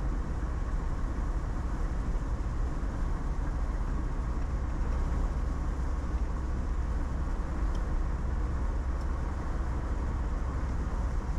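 A car driving steadily at road speed, heard from inside the cabin: an even low rumble of engine and tyres on the road with a light hiss.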